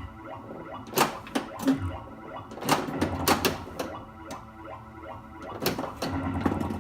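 Mr. & Mrs. Pac-Man pinball machine in play: electronic game sounds and a repeating background loop from a prototype Squawk & Talk sound board through the cabinet speaker, broken by several sharp mechanical clacks from the playfield.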